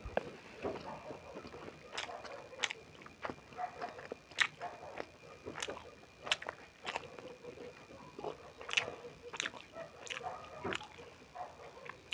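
Close-up eating sounds of beef momo dumplings being chewed, with irregular wet mouth smacks and clicks every half second or so. A faint steady high tone sits in the background.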